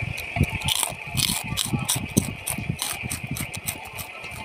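Close-up eating sounds of someone chewing braised chicken feet: an irregular run of sharp wet clicks and smacks with soft low thuds, over a steady high-pitched hum.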